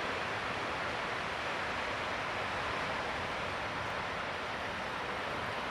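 Steady wash of background noise from surf and wind, with no distinct events.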